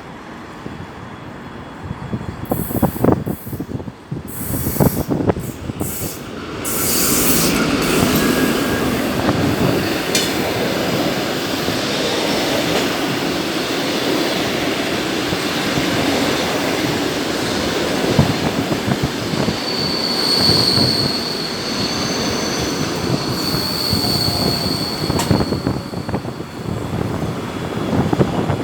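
Passenger train hauled by a TEP70BS diesel locomotive passing at speed: loud uneven surges in the first few seconds, then the steady rolling rumble of the coaches with rail clicks. A high wheel squeal rings out briefly about two-thirds of the way through.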